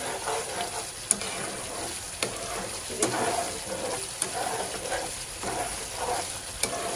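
Minced mutton keema sizzling in oil in a nonstick pan as a metal spatula stirs and scrapes through it, with a sharp click of the spatula against the pan about every second. This is the bhuna stage, the masala frying until the oil rises.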